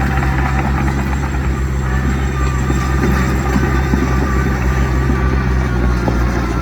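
Heavy diesel engine of earthmoving machinery running steadily, with a faint high whine over it from about two seconds in.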